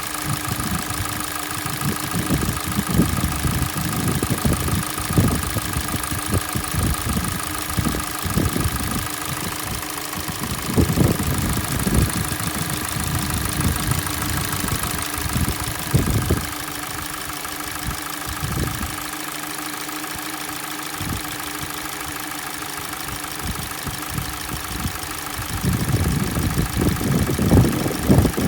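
Hyundai/Kia G4NA 2.0 L four-cylinder petrol engine idling with a steady whine and an irregular knocking underneath. This is the cold-engine knock the owner reports fades away as the engine warms up.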